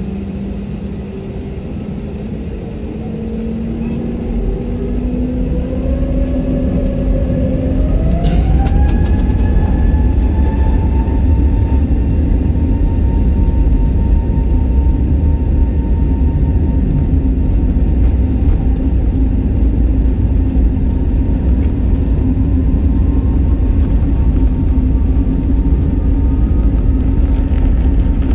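Jet engines of an Airbus A320-family airliner heard from inside the cabin, spooling up to takeoff thrust: their whine rises in pitch and the noise grows louder from about four to eight seconds in. After that comes a steady, loud rumble and whine during the takeoff roll.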